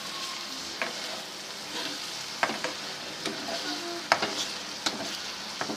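Aloe vera pieces being sautéed with onion and spice masala in a pan, a steady sizzle. A stirring spoon knocks and scrapes against the pan several times.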